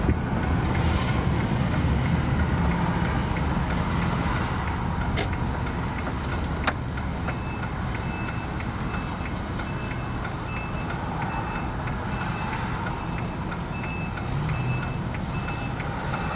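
Fire engine running at low speed, its reversing alarm starting to beep in a steady repeating pattern about seven seconds in as the truck backs up.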